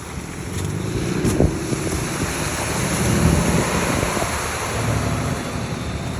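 Snowstorm wind rushing and buffeting the microphone, with an uneven low rumble that gets louder about a second in.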